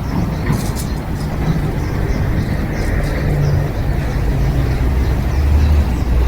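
A motor vehicle's engine running, its low hum growing louder near the end, with faint bird chirps above it.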